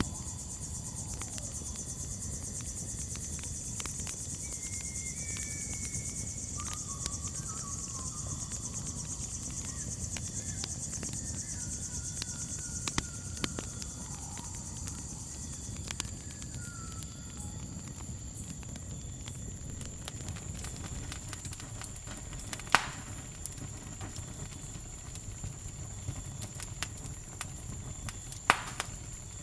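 Crickets trilling steadily on a high note over the low rush and scattered crackling of a campfire, with two sharp louder pops from the fire in the second half. A few faint whistled calls come and go in the middle.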